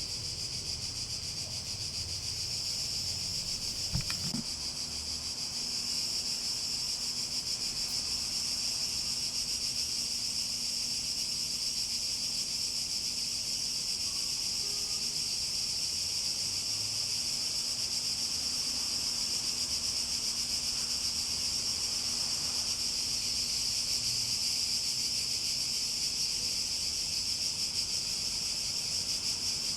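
Cicadas buzzing in a steady, continuous high-pitched chorus. There is a single click about four seconds in, and the chorus grows slightly louder soon after.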